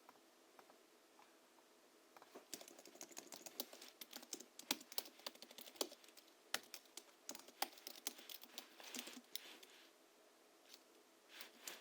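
Typing on a Hansung GHL-5X keyboard whose springs are lubed with Krytox 103 and 107 and fitted with 50 g rubber domes. A quiet pause, then a fast run of keystrokes from about two seconds in to about ten seconds, and a few more keystrokes near the end.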